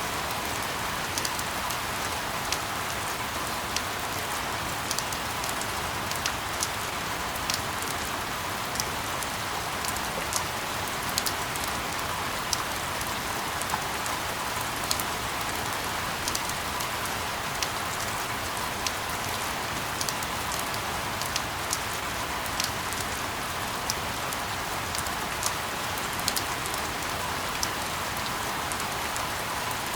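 Steady rain falling on a surface: an even hiss with many scattered sharp drop ticks.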